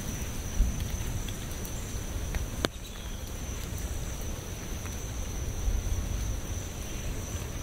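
Rain falling steadily, with a low rumble underneath and scattered faint drop clicks, one sharper click about two and a half seconds in. A thin, steady high-pitched tone runs through it.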